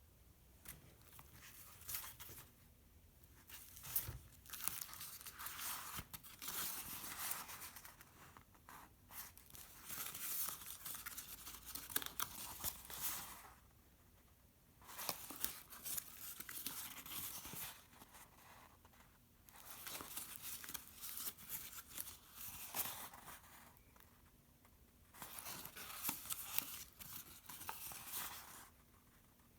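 Pages of a handmade folded book of painted copy paper being turned and handled: bouts of rustling and crinkling with sharp clicks, broken by short quiet gaps.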